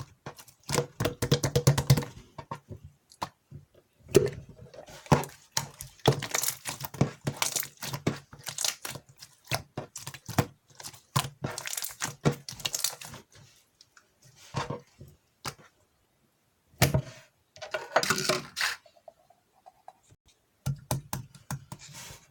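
Clear slime being squished, pressed and stretched by hand, making rapid sticky clicks and little pops in bursts with short pauses between.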